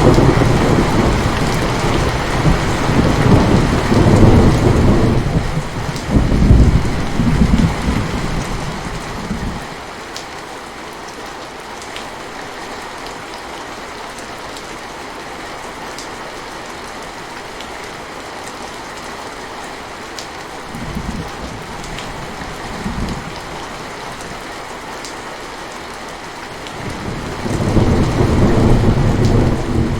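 Steady rain falling on a surface, with deep rolling thunder through the first third. Two brief low rumbles come a little past two-thirds of the way in, and another roll of thunder builds near the end.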